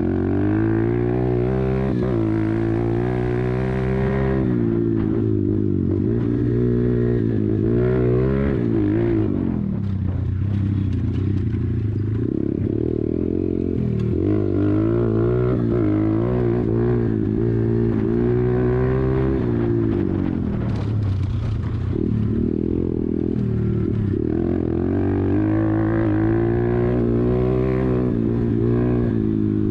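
YCF 125 pit bike's single-cylinder four-stroke engine being ridden hard, its pitch climbing and dropping over and over as the rider accelerates out of corners and backs off into them.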